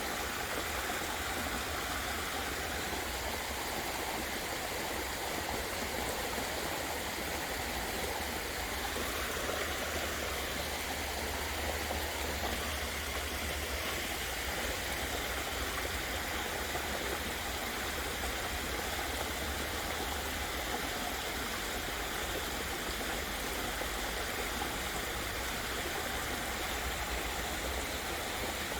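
Waterfall splashing and pouring steadily, an even rushing of falling water.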